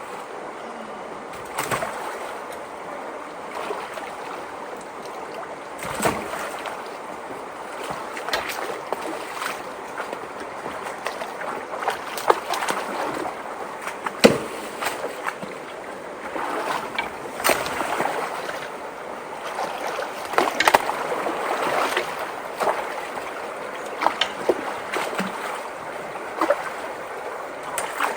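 Creek water rushing steadily into a clogged culvert, with irregular splashes and knocks as branches and debris are worked loose and pushed through the water.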